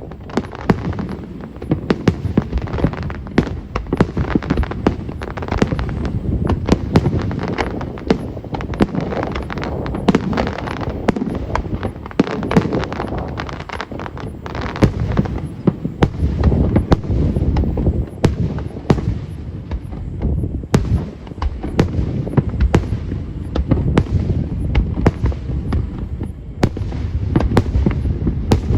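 Aerial fireworks display going off in a dense, continuous barrage: booms over a constant rumble, with rapid crackling bursts and no let-up.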